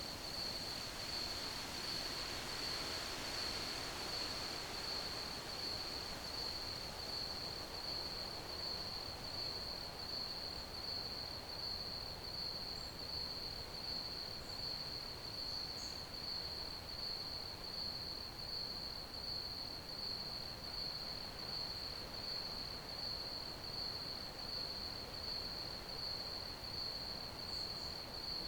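Crickets chirping in a steady, high, finely pulsing trill that never stops, over a soft background hiss.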